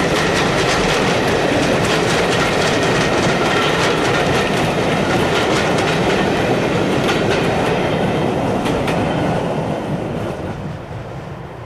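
Coaches of a steam-hauled passenger train rolling past, their wheels clattering over the rail joints in quick clicks. The sound fades near the end as the last coach draws away.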